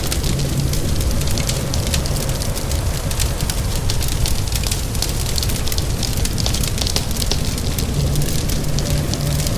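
Wood fire crackling with many quick small pops over a steady low rumble, with rain falling.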